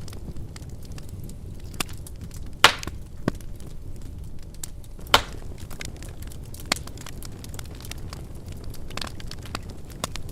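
Wood fire burning in a fireplace with a steady low rumble and irregular crackles, two louder pops about a third and half of the way through.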